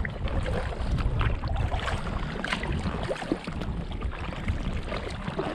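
Wind buffeting the microphone with a low rumble, over the splashes and drips of a kayak paddle dipping into canal water.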